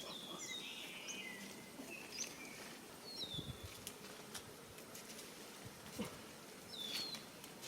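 Small bird chirping: a scattering of short, high calls that bend down and level off, several times, with a few faint clicks.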